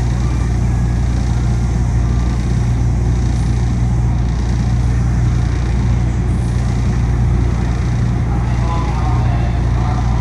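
Steady low hum and rushing noise inside a Yui Rail (Okinawa Urban Monorail) car while it runs, with the car's loud air conditioning.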